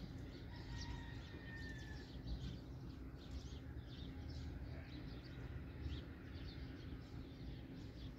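Faint chirping of small birds, many short high chirps scattered throughout, over a low steady hum.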